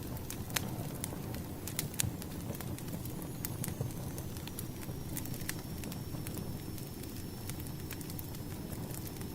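Burning firewood crackling: irregular sharp pops and snaps over a steady low rumble of the fire. A faint high whistle sets in about three seconds in.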